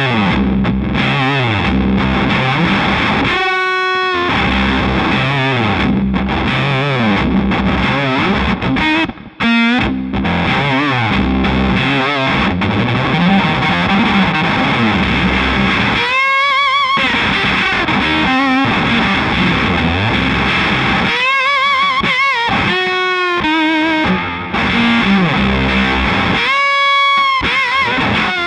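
Electric baritone guitar played through fuzz distortion, with low riffing and held lead notes that waver with vibrato, several times.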